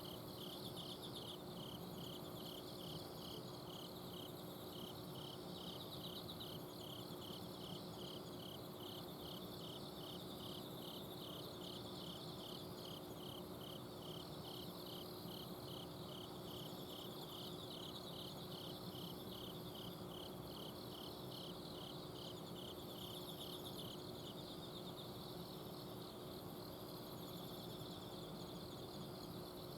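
Chorus of autumn crickets and other singing insects at night. One insect chirps steadily at about two to three chirps a second until it stops near the end, while others trill higher and continuously. Under it runs a steady low hum from an air-conditioner outdoor unit.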